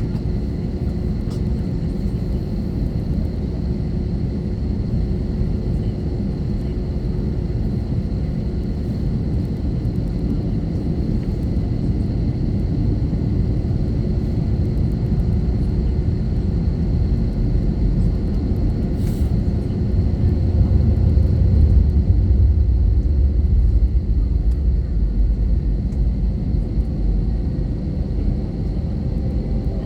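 Airbus A321 cabin noise heard from a window seat: a steady low rumble of the engines and airflow with a faint steady hum on top, growing louder for a few seconds about twenty seconds in.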